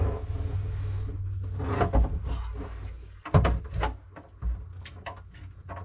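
Knocks and light clatter of hard objects being handled in a kitchen sink cabinet: a few separate thuds, then a run of small clicks near the end.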